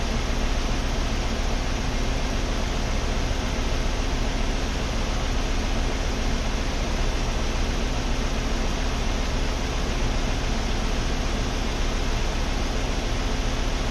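A 2016 Ford Explorer running with its front bumper removed: a steady rushing noise with a low hum, as of the engine and the radiator cooling fan.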